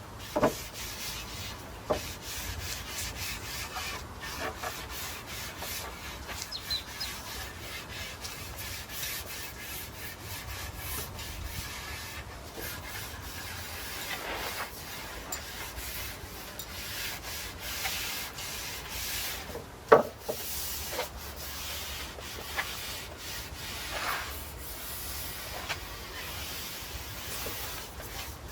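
Paint brush stroking oil onto European larch planks: repeated bristle strokes rubbing over the wood grain, with a few sharp knocks along the way, the loudest about twenty seconds in.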